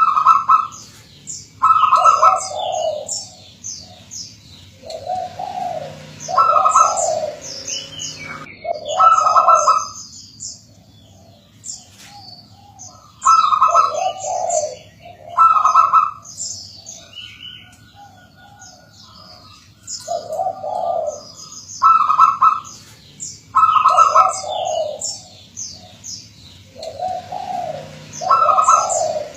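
Zebra dove (perkutut) cooing in its repeated phrases of rounded notes, several phrases with short pauses between them, in full song as a perkutut lure call. High chirping of other small birds runs over it.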